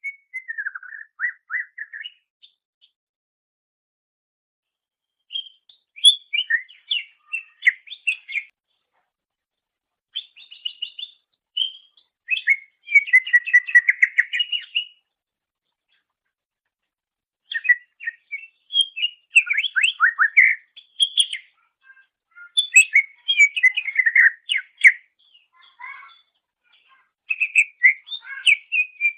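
Cucak ijo (green leafbird) singing: rapid, varied chirps, trills and whistles in bouts of a few seconds each, with short pauses between them.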